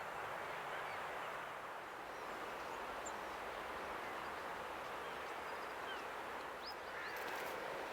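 Steady outdoor rushing noise with a few faint, short bird chirps scattered through it, and some light ticks near the end.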